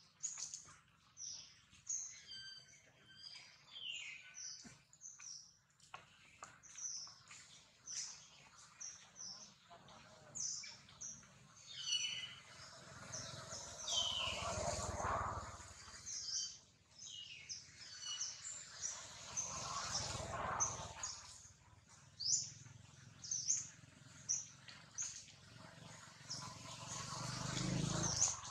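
Birds chirping and whistling in short, high calls, some falling in pitch, scattered all through. A few swells of low rushing noise rise and fade under them, the loudest about halfway and again near the end.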